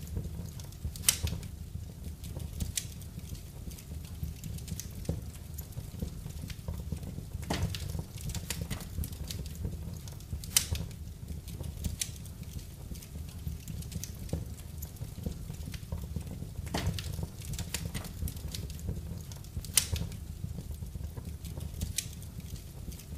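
Wood fire burning in a fireplace: a steady low rumble of the flames with scattered sharp crackles and pops, a handful of louder pops standing out, the loudest about a second in and near twenty seconds in.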